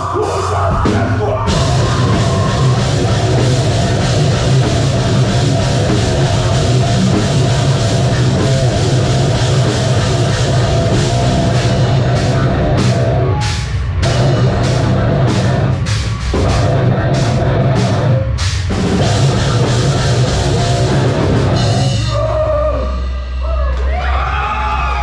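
A live heavy metal band plays loud: distorted guitars, bass and a drum kit. There are a few short stop-start breaks in the riff in the middle, and the song stops near the end, leaving a low hum.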